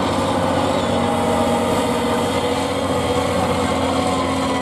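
Competition truck engine running at fairly steady revs, its pitch drifting slightly up and down.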